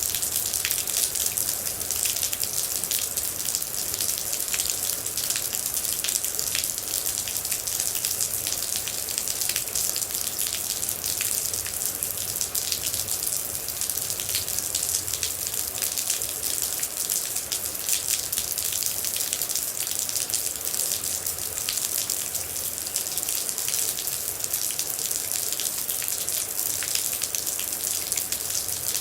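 Steady rain falling, a constant hiss with many separate water drops ticking through it.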